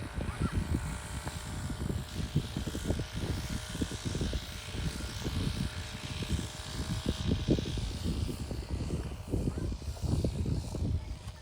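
Wind buffeting the microphone outdoors, an uneven low rumble that rises and falls in gusts, with a faint hiss above it.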